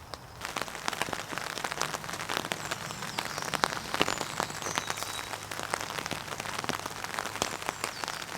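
Heavy rain falling on tent fabric: a dense, steady patter of drops striking the canvas, starting about half a second in.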